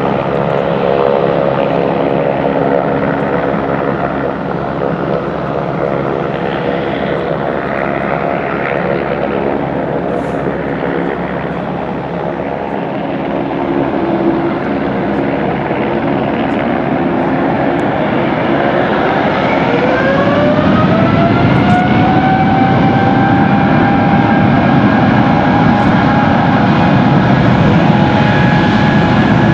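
Boeing 787 jet engines running with a steady drone. About two-thirds of the way in, a whine rises in pitch and levels off over a growing low rumble: the engines spooling up toward takeoff power.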